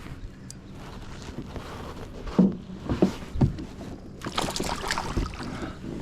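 Water splashing and slapping around a kayak, with a few sharp knocks against the hull in the middle and a burst of splashing near the end.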